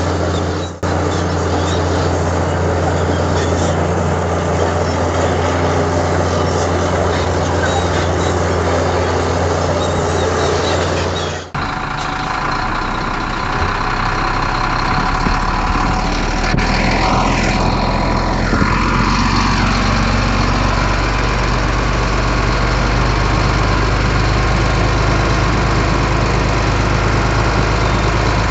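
Heavy diesel earthmoving machinery running steadily with a deep, even engine note. About eleven seconds in, the engine note changes abruptly to a lower, steady hum. A few brief gliding squeals come near the middle.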